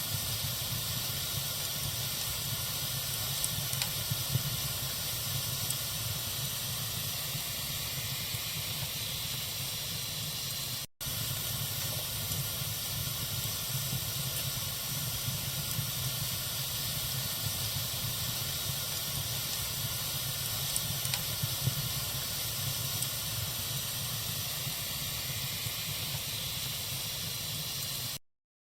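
Campfire burning with a steady hiss and a few faint pops. The sound drops out for an instant about eleven seconds in and cuts off suddenly near the end.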